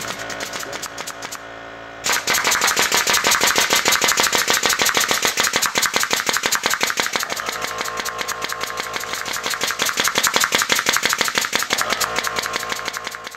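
Pneumatic nail gun on a roller-driven automatic nailing attachment firing a rapid, evenly spaced string of nails, many shots a second. It breaks off briefly about a second and a half in, then fires steadily again until near the end.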